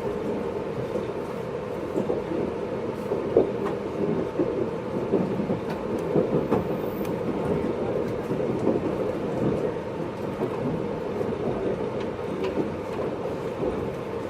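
Running noise inside a JR East 583 series electric multiple unit, recorded in motor car MoHaNe 582-106: a steady rumble of wheels and running gear on the track, with scattered clicks and knocks.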